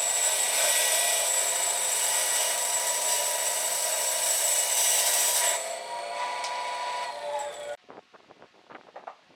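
Power tool working wood: a steady motor whine over loud grinding noise that eases off about five and a half seconds in and stops abruptly near eight seconds, followed by faint taps and knocks.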